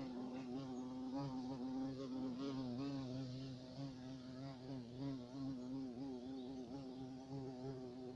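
Carpenter bee buzzing in flight: a continuous low buzz that wavers slightly in pitch.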